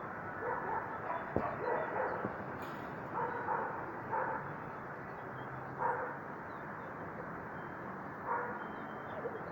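A dog barking in short single barks at irregular intervals, over steady wind noise.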